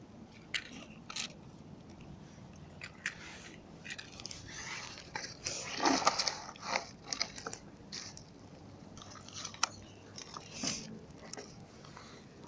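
Irregular crackles and crunches from a small campfire of paper and twigs burning as it is tended, with the loudest cluster of crunches about six seconds in.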